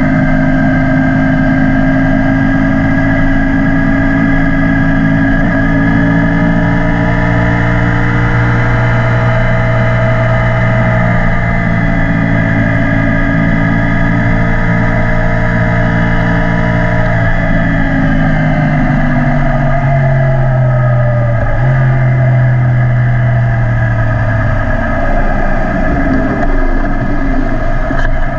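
Yamaha YZF-R1 crossplane inline-four through an Akrapovic exhaust, running at a steady speed, then its pitch drops in several steps from about two-thirds of the way in as the bike slows. Wind rushes over the microphone throughout.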